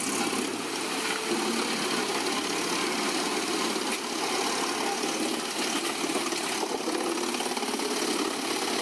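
The CAT engine of a Komptech Chippo 8010C wood chipper running steadily: a continuous mechanical drone with no pauses.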